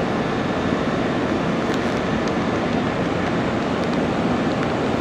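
A Nankai electric train running along the station platform, a steady rumbling noise with a few faint ticks.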